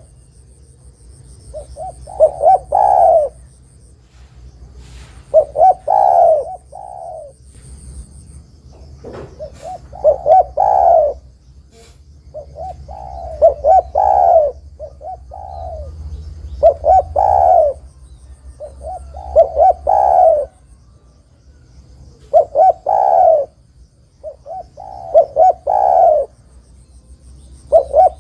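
Spotted dove (tekukur) cooing in full song, about nine repeated phrases, each a quick run of short coos ending in a longer arched note, with a gap of a second or two between phrases.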